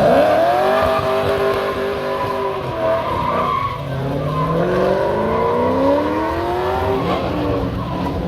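A car engine revved hard as the car accelerates away: the pitch jumps up at the start, holds high, dips, then climbs steadily again and drops near the end, as at a gear change.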